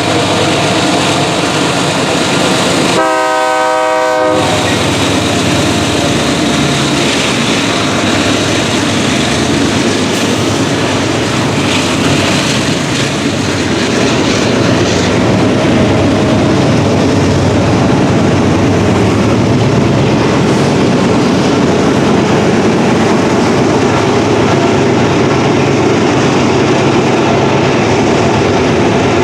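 Freight train rolling past with a steady rumble of wheels on rail; a diesel locomotive's multi-chime horn sounds once briefly about three seconds in.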